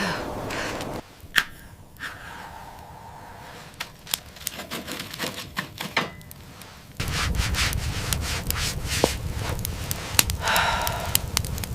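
Rubbing and scraping with scattered sharp clicks; about seven seconds in, a louder dense crackling over a low rumble starts abruptly.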